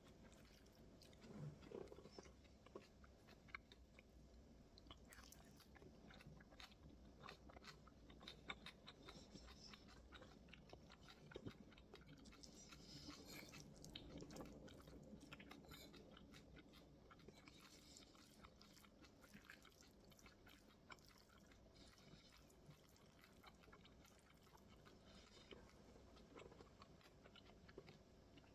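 Faint close-up eating sounds: a person chewing mouthfuls of bibimbap, with many small clicks and soft crunches from the raw and pickled vegetables.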